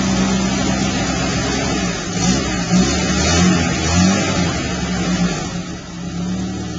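1985 Jeep engine running, surging unevenly several times in the middle before settling. It is running rich and rough, which the owners put down to a carburetor needing adjustment or a rebuild.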